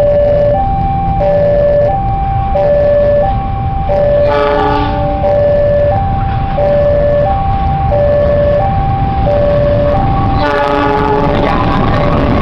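A CC206 diesel locomotive approaches and passes close by over the rumble of the train, sounding its multi-note horn twice: about four seconds in and again near the end. Throughout, a railway level-crossing warning signal alternates steadily between a low and a higher note.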